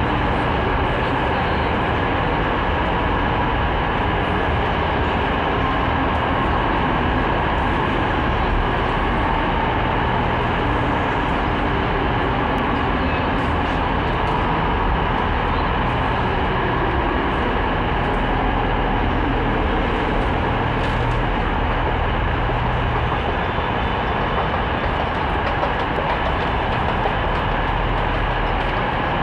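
Train running steadily at a station: a continuous, even rumble with a faint steady whine over it.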